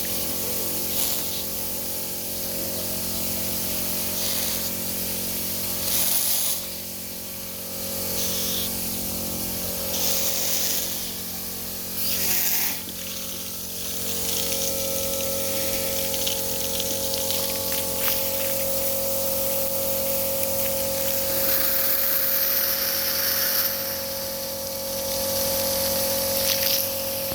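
Heating-system flushing: a pump running with a steady, many-toned hum while water rushes through the pipework in repeated hissing surges, the longest near the end.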